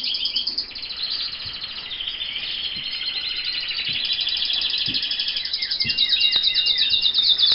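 Several canaries singing at once in long, fast trills of rapidly repeated high notes, growing louder toward the end, with a run of short falling notes about six seconds in.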